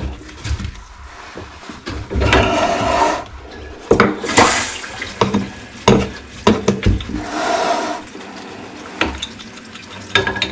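Water rushing into a toilet as its supply is turned on and the tank and bowl fill, in three short spells, with a few sharp knocks in between.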